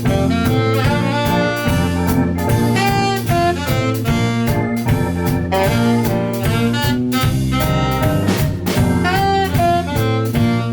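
Jazz ensemble playing an instrumental number live, a saxophone carrying the melody over walking bass and a drum kit keeping a steady beat.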